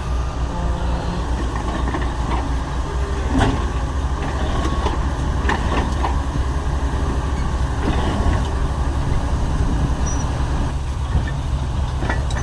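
Heavy diesel construction machinery running steadily with a low engine drone, with a few short knocks and clanks in the middle.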